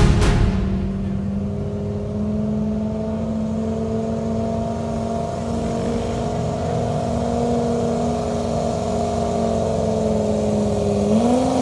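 LS-powered Chevy Silverado's V8 gas engine running at steady high revs. Its pitch stays level, then rises slightly about eleven seconds in.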